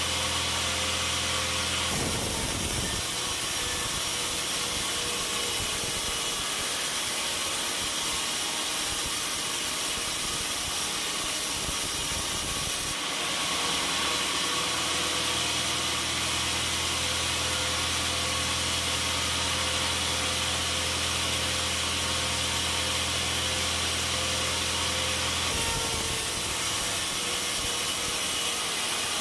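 Sawmill saw cutting through a log: a steady, hissing saw noise over a low motor hum, changing abruptly three times.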